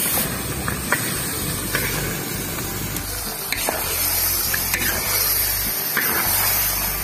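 Chicken pieces frying in spice paste in a large wok, sizzling steadily, with scattered clicks and scrapes as a spatula stirs them.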